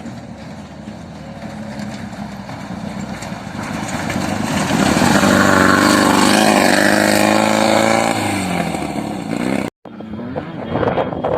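An off-road vehicle engine revving up, loudest from about four to eight seconds in, then its pitch and level falling away. The sound cuts out for an instant near the end.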